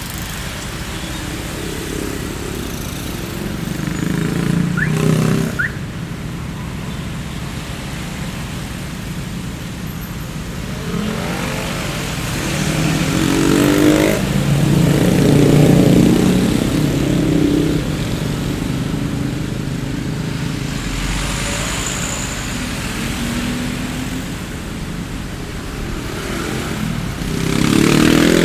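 Street traffic ambience: a steady roadway hum with vehicles passing one after another. The loudest passes come in the middle and near the end, their engine notes rising and falling as they go by.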